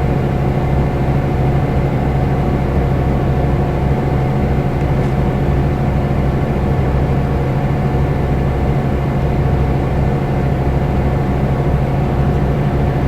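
Scania K320 IB coach's diesel engine running at a steady speed under way, a constant drone with no change in revs or gear.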